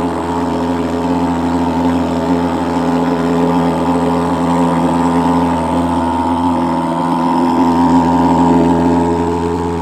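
Engine-driven fogging machine running steadily, a constant droning buzz that swells a little near the end.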